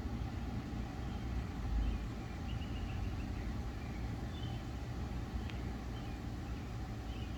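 Outdoor background: a low, steady rumble with a few faint, short high chirps scattered through it.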